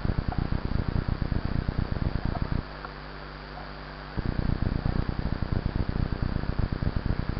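Wind buffeting on the microphone while riding a mountain bike: heavy, fluttering low rumble that drops out about two and a half seconds in and comes back about a second and a half later, over a steady hiss.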